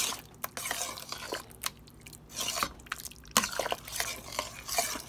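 A spoon stirring a pot of thick, creamy chicken and dumplings: irregular wet squelching strokes, with a few sharp clicks of the spoon against the pot.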